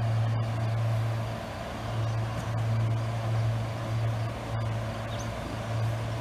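Diesel locomotive engine running: a steady low drone that swells and eases slightly.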